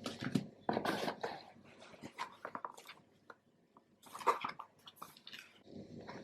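Irregular rustling and clicking of objects being handled, in bursts with short sharp clicks, loudest around a second in and again past the middle.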